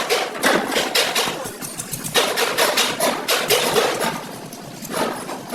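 Irregular series of sharp knocks and bangs, a few a second.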